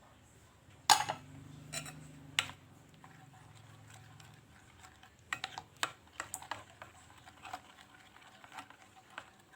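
Spoon stirring batter in a bowl, knocking against the bowl: one sharp clink about a second in, then a run of light, irregular taps and clicks in the second half.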